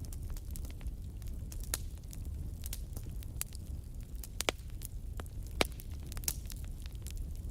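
Campfire crackling, with irregular sharp pops, the loudest a little after halfway, over a steady low rumble.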